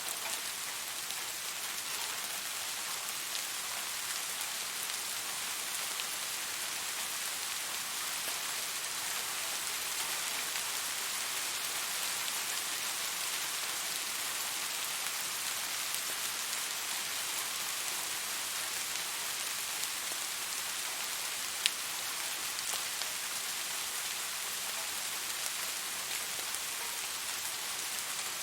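Steady rain falling, an even dense hiss of drops with faint scattered ticks. One sharp single click stands out about three-quarters of the way through.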